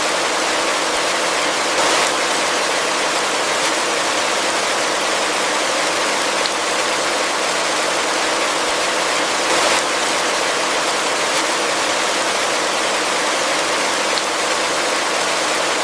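Heavy rain falling steadily, a dense even hiss of drops with two brief swells, one about two seconds in and one near ten seconds, and a few faint single drop ticks.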